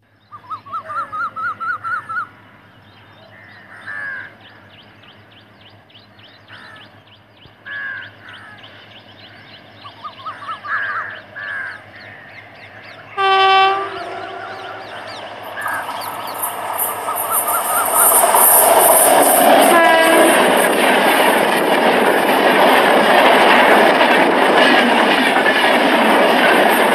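An Indian Railways electric locomotive sounds its horn once, then its train of passenger coaches passes close by: wheels and coaches build to a loud rushing rumble that carries on to the end, with a brief second horn note partway through the pass. Before the horn, short scattered chirps come and go over a faint background.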